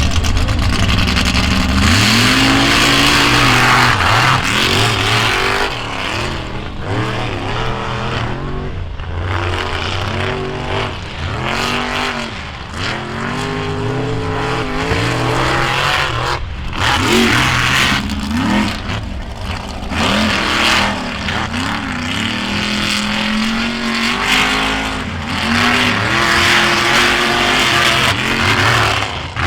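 Off-road trucks' engines revving hard, their pitch climbing and dropping again and again as they run a dirt track, over a steady wash of noise.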